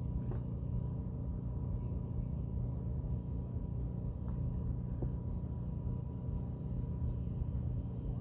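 Boat engine running steadily: a continuous low drone with a faint steady whine above it.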